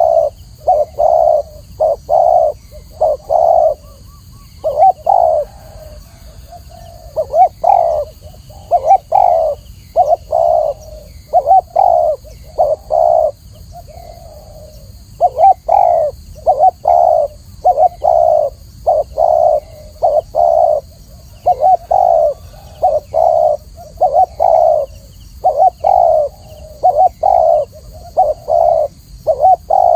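Spotted dove cooing over and over in short phrases of low, hollow coos, about two notes a second. The phrases pause briefly twice.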